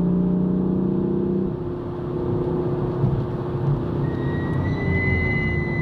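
BMW car's engine heard inside the cabin, pulling steadily under acceleration at speed over road and tyre rumble. A thin, steady high whine comes in about four seconds in.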